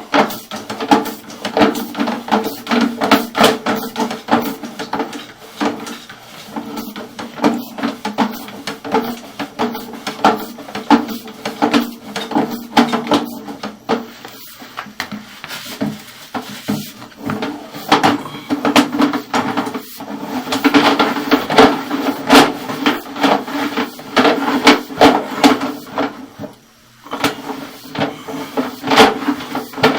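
Sewer inspection camera being pushed through a drain line: rapid, irregular clicking and knocking over a steady hum, with a short lull near the end.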